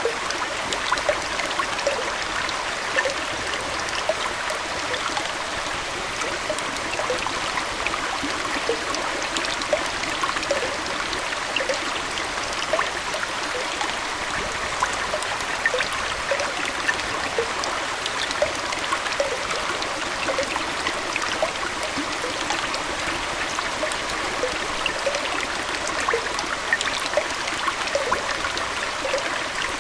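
Aquarium water trickling and splashing steadily, a continuous bubbling flow with many small drips and plinks.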